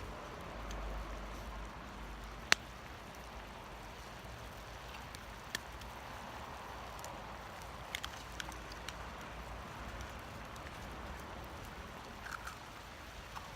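Wood fire in a small Firebox twig stove burning with a steady noise and scattered sharp crackles. One pop, much louder than the rest, comes about two and a half seconds in, and a few smaller ones follow later on.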